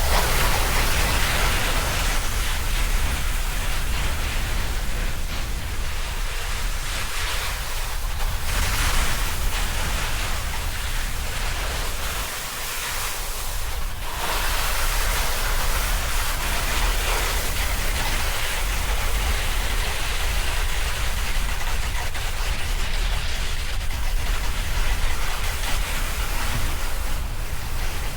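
Snowboard sliding over snow with wind rushing and buffeting on the camera's microphone, a steady hiss over a low rumble, with a few brief surges of scraping as the board turns.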